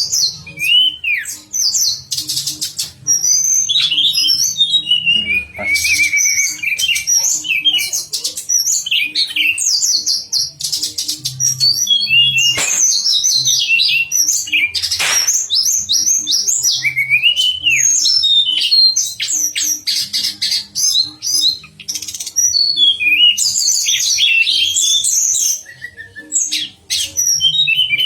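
Tledekan songbird singing a long, rapid, varied song of chirps, arching whistles and fast buzzy trills, almost without pause, used as contest training song for songbirds.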